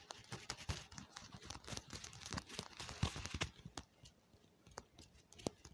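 ASMR ear-cleaning and tapping sounds on a close microphone: quick scratchy crackles and sharp clicks, dense for the first four seconds or so, then thinning to a few single clicks.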